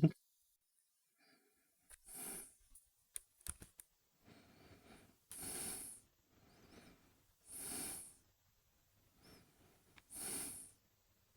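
Slow, heavy breathing like soft snoring in sleep, with a louder breath about every two and a half seconds and fainter breaths between them.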